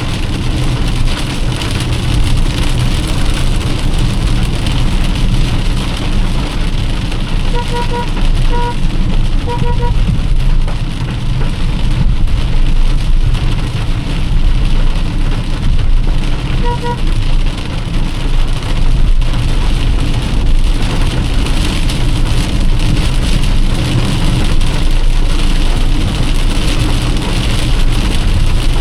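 Heavy rain on a moving car, with steady road and engine noise. A few short beeps come in quick groups about a third of the way in, and once more a little past halfway.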